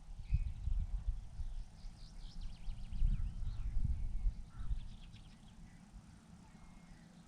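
Small songbirds chirping and trilling in quick bursts of high notes, over an uneven low rumble that is strong for the first few seconds and dies away after about five seconds.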